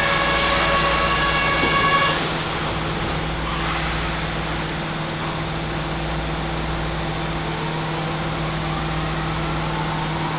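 Kyoto Municipal Subway 50 series train pulling out of the station: a held chord of tones stops about two seconds in, then a steady low hum and running noise of the train under way.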